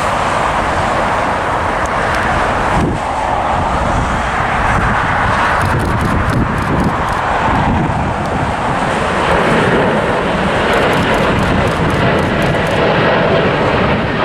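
Boeing 787 Dreamliner's jet engines at takeoff thrust: a steady, loud rumble and hiss that swells a little in the second half.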